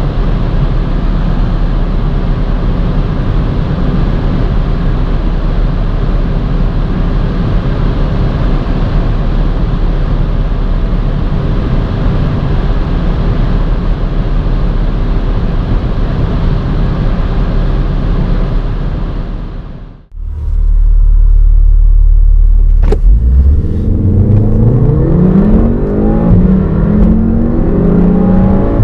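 Onboard sound of a turbocharged 2.0-litre four-cylinder hot hatch: a steady roar of road and wind noise at high speed. This cuts off abruptly about two-thirds of the way in. A low hum and a single click follow, then the engine pulls hard under full throttle, its revs rising again and again through successive upshifts.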